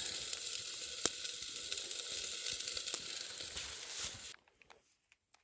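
Smoked sausages sizzling over a campfire, a steady hiss with a few sharp pops. The sound cuts off suddenly about four seconds in.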